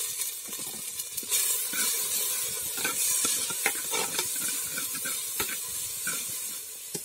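Chopped onion and tomato sizzling in hot coconut oil in a pot. A wooden spoon scrapes and knocks against the pot as the mixture is stirred, starting about a second in.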